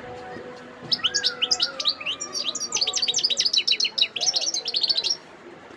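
European goldfinch singing: a fast, jangling run of high twittering notes that starts about a second in and stops about half a second before the end.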